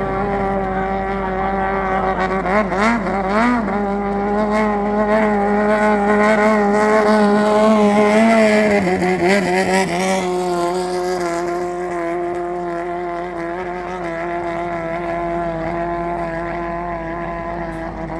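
Racing long-tail boat engine running steadily at high revs. Its pitch wavers briefly about three seconds in and again around nine seconds, then settles a little lower.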